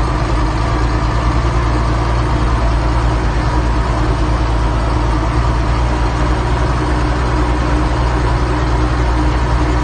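Zetor 12245 turbo tractor's turbocharged diesel engine running steadily at a constant speed, with no change in revs.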